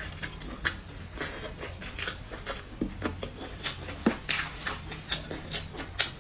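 Close-miked chewing of a mouthful of skewered grilled food: irregular wet mouth clicks and smacks, a few a second, over a low steady hum.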